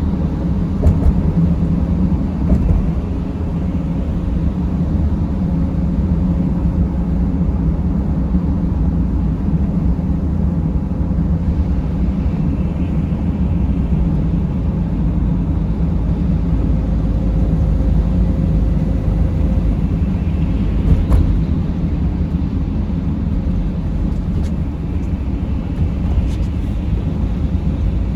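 Mercedes Sprinter van driving, its engine and road noise making a steady low rumble, with a few faint clicks past the middle.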